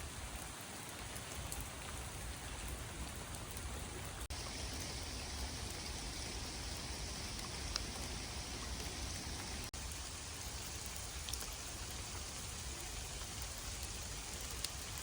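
Steady rain falling, a continuous hiss with a few scattered drop ticks.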